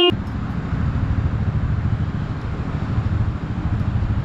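An engine running steadily nearby with a low rumble, after a short pitched beep that stops right at the start.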